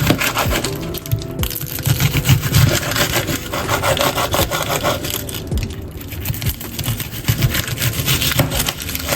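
Knife cutting through an onion on a cutting board, with repeated sawing strokes and knocks against the board.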